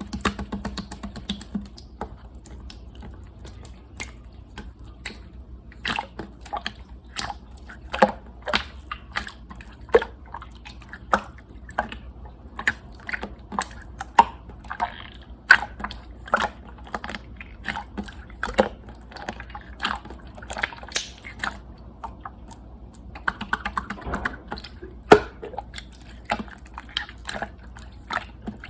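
Clear slime being squished and played with, giving irregular sharp clicks and pops, a few a second.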